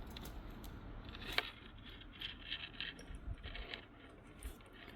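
Faint light clicks and short scrapes of small hard objects being handled, with one sharper click about one and a half seconds in.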